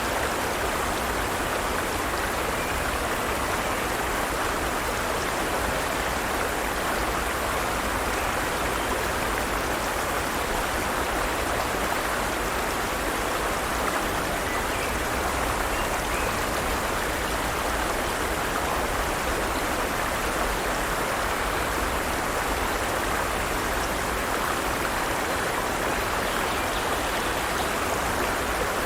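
Forest stream: water running steadily over rocks, a continuous, even rushing.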